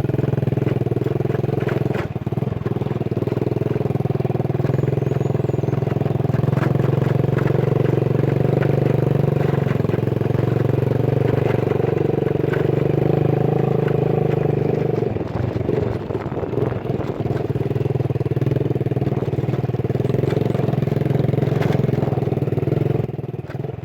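Engine of a vehicle on the move, running at a steady cruising note with road noise, easing off briefly about two-thirds of the way through before picking up again.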